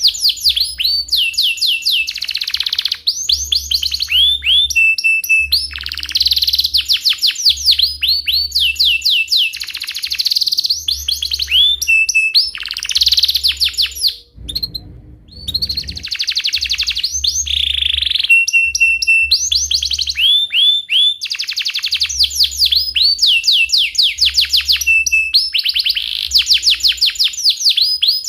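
Domestic canary in full song: long runs of rapid rolling trills and chirps, with a short pause about halfway through.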